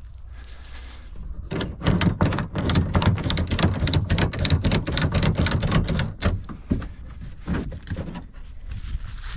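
A fast run of sharp mechanical clicks and rattles, several a second, starting about a second and a half in and lasting about four and a half seconds before thinning out.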